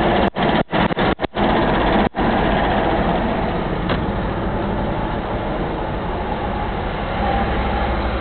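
Steady road and engine noise of a car driving on the highway. The sound cuts out briefly several times in the first two seconds.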